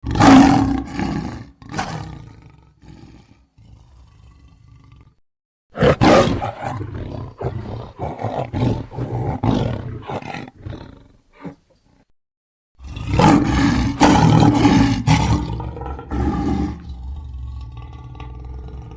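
Big-cat roars presented as the voice of a saber-toothed cat, an extinct animal, so the sound is a reconstruction. There are three rough, loud bouts: a short one at the start, a longer one about six seconds in, and another about thirteen seconds in that fades out near the end.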